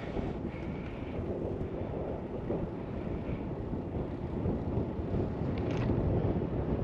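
Wind rushing over the microphone of a moving bicycle's camera, a steady rumbling noise that gets louder near the end. A few faint short high sounds stand out above it.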